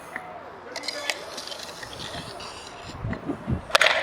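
Spectators' voices and chatter around a hardcourt, with a few light clicks early on and one loud sharp knock near the end.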